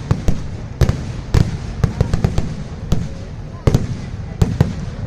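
Festival fireworks display going off: a rapid, irregular string of sharp bangs, several a second, over a continuous low rumble of further explosions.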